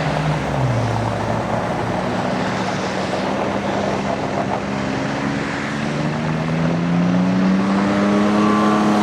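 John Deere 825i Gator's three-cylinder gas engine running as the utility vehicle is driven. The engine note drops about half a second in, holds fairly steady, then rises in pitch from about six to eight seconds in as it speeds up again.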